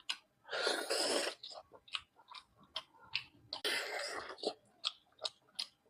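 Close-miked chewing and biting of spicy mutton chop and nalli: many short wet clicks and smacks, with two longer noisy stretches about half a second in and again near four seconds.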